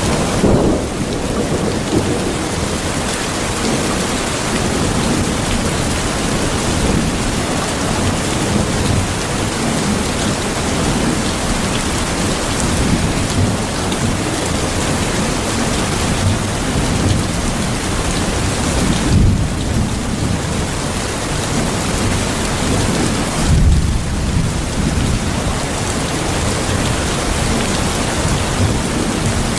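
Steady heavy rain falling, with low rolls of thunder rumbling under it near the start and twice more about two-thirds of the way through.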